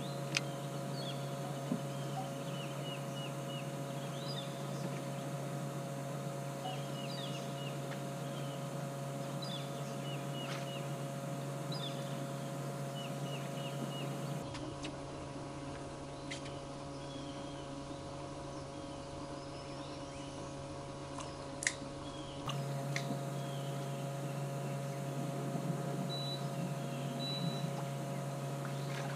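Small birds chirping in short, repeated, falling notes over a steady low electric hum. There is a single sharp click about three quarters of the way through.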